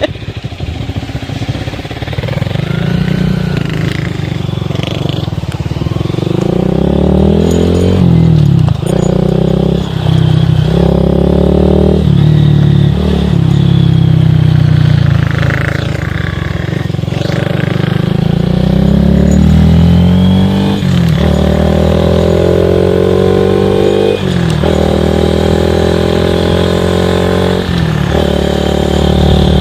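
Small single-cylinder motorcycle engine accelerating through the gears, its pitch climbing and then dropping back at each of several gear changes.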